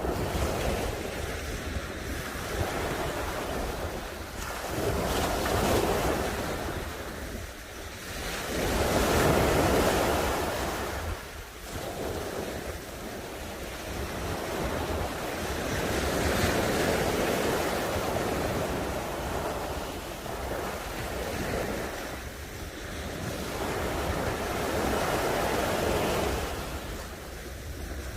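Sea waves breaking on a sandy beach: the surf swells and falls back every few seconds, with a steady wind rumble on the microphone underneath.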